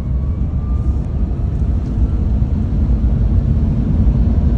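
Tesla Cybertruck accelerating hard in launch mode, heard from inside the cab: a steady low rumble of tyre and wind noise, with a faint rising electric-motor whine in the first second or so.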